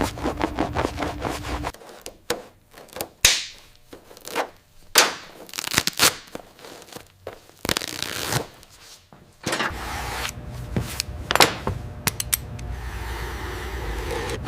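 Workshop work sounds: sanding at first, which stops about two seconds in. Then comes a run of scattered sharp clicks and knocks, and near the end a steady machine hum with clicks returns.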